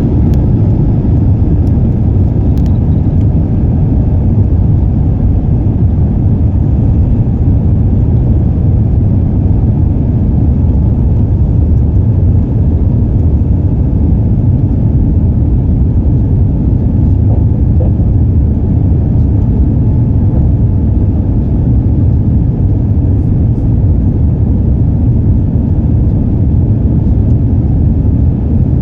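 Airbus A350-900 jet engines and airflow during take-off, heard from inside the cabin as a loud, steady, low-pitched noise that does not change.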